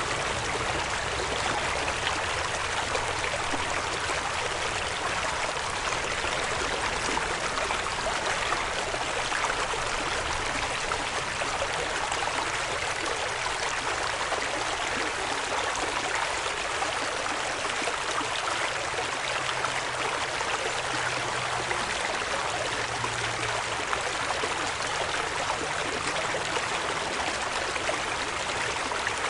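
A creek running over rocks: steady rushing and trickling water, even throughout.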